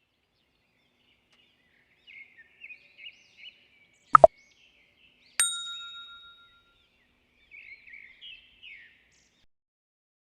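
A single bell-like ding about five seconds in that rings out and fades over about a second. It follows a sharp double click, and soft high bird-like chirps come before and after it.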